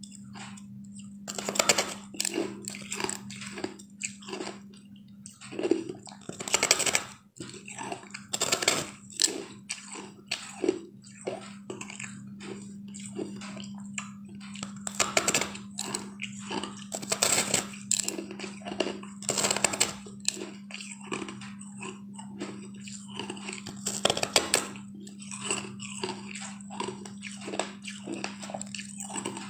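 Close-up crunchy biting and chewing of a blue sweet-ice treat, with irregular crunches every second or so, over a steady low hum.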